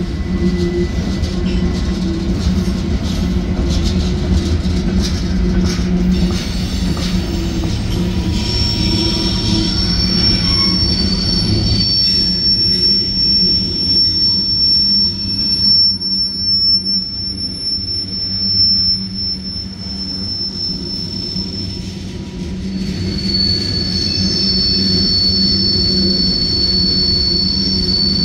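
Freight train cars rolling past with a steady low rumble and clicking wheels over the rail joints. From about eight seconds in, a high steel wheel squeal comes in, fades out around twenty seconds and returns near the end.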